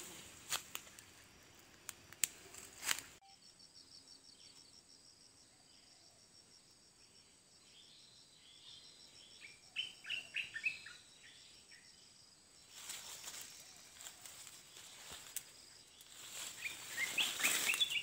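Small birds giving short high chirps in quick little series, about halfway through and again near the end, over a faint steady high insect-like trill. Leaves rustle with handling noise at the start and again near the end.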